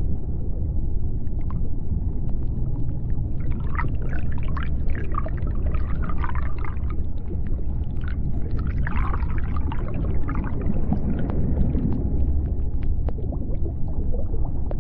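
Underwater sea-floor ambience: a steady low rumble with scattered clicks throughout. Two bouts of warbling, whale-like calls come in, one about four seconds in and another about nine seconds in.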